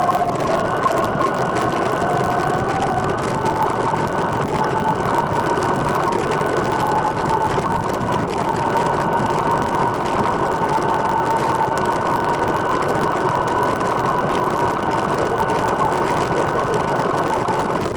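Recumbent trike rolling along: a steady mix of tyre and drivetrain noise with a thin, slightly wavering whine over it.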